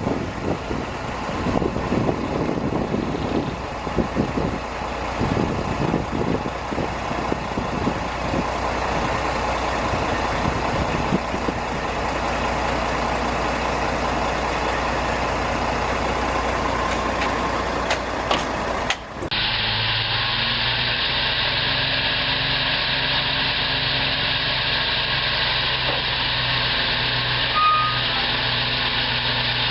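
Dump truck engines running: rough, rattling engine noise, then an abrupt cut about two-thirds of the way in to a steadier, even engine hum.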